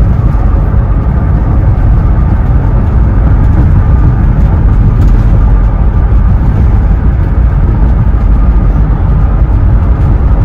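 Steady, loud rumble of road and wind noise from a Ford Transit high-top van driving at speed in strong wind, heaviest in the low end.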